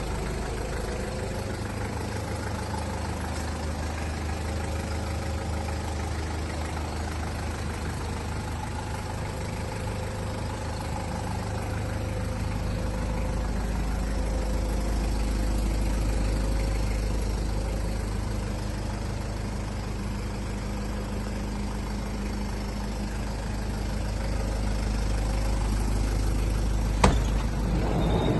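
Toyota Hiace turbo diesel engine idling steadily, with one sharp click near the end.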